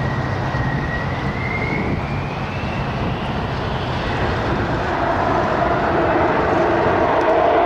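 Aircraft engine noise: a steady rushing drone with a faint whine that rises slightly in pitch, getting louder in the last few seconds as the aircraft draws closer.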